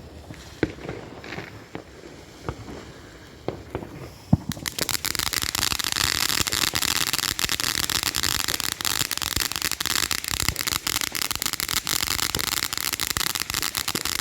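Firework crackling: a few scattered pops, then about four seconds in a dense, rapid crackle starts suddenly and carries on loudly, like a crackling ground fountain.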